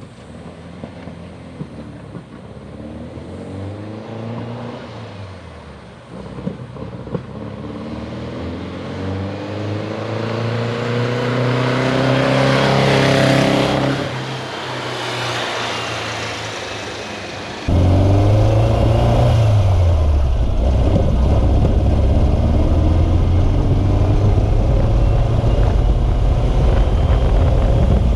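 VW Beetle rally car's freshly installed engine driving around and revving, its pitch climbing again and again as it accelerates. It grows louder toward about 13 seconds in and eases off. Near 18 seconds in it jumps suddenly much louder and keeps running hard. The engine is a runner but still needs tuning.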